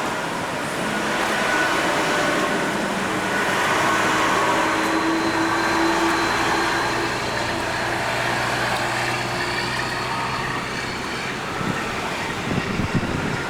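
Road traffic going by, with a steady engine hum from a passing vehicle through the middle. A few low thumps come near the end.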